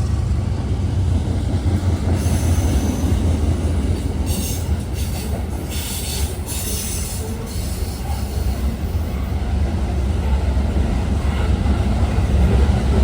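Coal freight train rolling past: a steady heavy rumble of wheels on rail, with brief high-pitched wheel squeal between about two and seven and a half seconds in.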